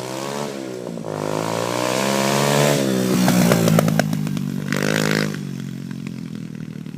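Kawasaki KLX110's single-cylinder four-stroke engine running through a new FMF Powercore 4 exhaust. It revs up over a couple of seconds, gives a second short higher rev about five seconds in, then drops back and fades.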